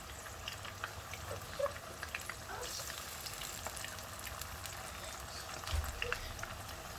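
Chicken pieces deep-frying in hot oil in a wok: a steady sizzle with many small crackles.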